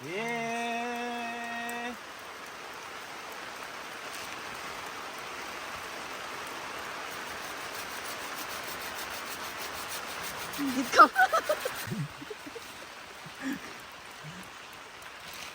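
Steady monsoon rain hissing. A held, steady pitched tone sounds for about the first two seconds, and about eleven seconds in comes a quick, loud run of short falling pitched calls.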